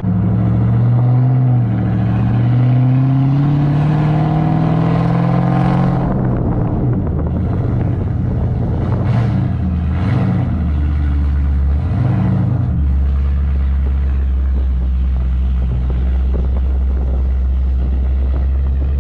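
Straight-piped, cammed Ford Mustang GT 4.6-litre three-valve V8 exhaust, loud. The engine pulls up in pitch over the first few seconds with a brief drop early on, varies unevenly for a while, then settles into a steady low drone for the second half.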